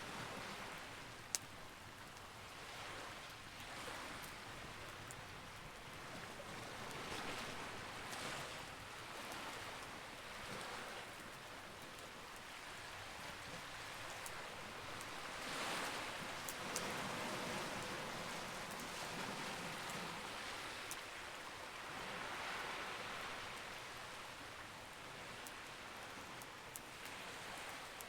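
Campfire burning, with a few sharp pops and crackles over a steady rushing hiss that swells and fades every few seconds.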